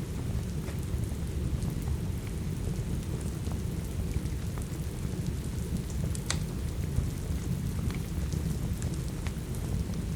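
Steady rain with a deep, even rumble, and sharp crackles and pops of a wood fire scattered through it, the loudest pop about six seconds in.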